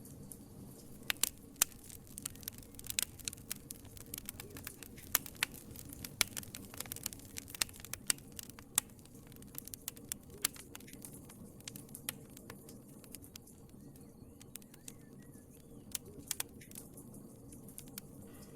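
Wood fire crackling in a fireplace: irregular sharp pops and snaps over a low steady rumble of the flames, thinning out somewhat in the last few seconds.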